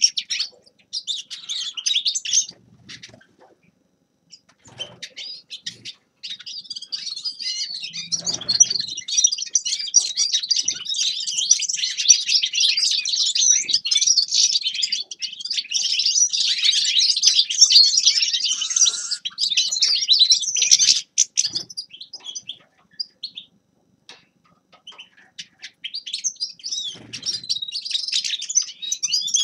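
A finch singing a fast, twittering song in bouts: a short phrase at the start, a long unbroken stretch from about six seconds in to about twenty-one seconds, then a pause before the song resumes near the end. A few soft low thumps fall between the phrases.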